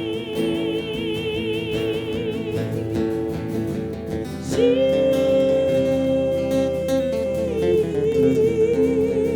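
Live Celtic folk song: long held sung notes with vibrato over acoustic guitar, a new note starting about halfway through.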